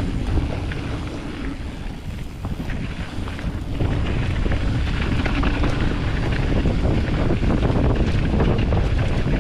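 Wind buffeting the microphone over the noise of a Specialized Status 160 mountain bike's tyres rolling down a dirt trail, with short rattles and clicks from the bike over rough ground. It grows louder about four seconds in.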